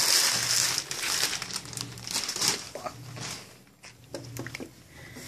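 Packaging being handled and pulled apart, crinkling steadily for the first two and a half seconds, then in scattered crackles that thin out.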